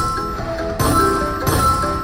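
Slot machine bonus-feature music: bell-like chimes struck over and over every half second or so, above held tones.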